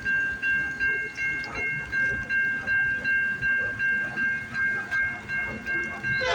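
Railway level-crossing warning bell ringing in an even, fast rhythm of about three dings a second, signalling an approaching CN freight train.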